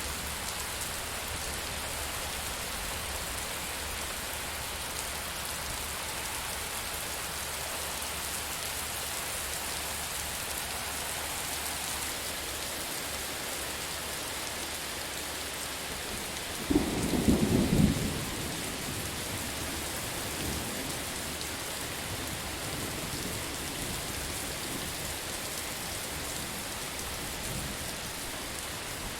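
Steady heavy rain hissing, with a close thunderclap a bit over halfway through: a loud rumble with several sharp peaks that fades over a few seconds.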